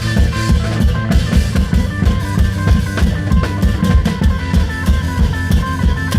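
Isan klong yao band music: long drums and drum kit keep a fast, dense beat under a melody of short held notes.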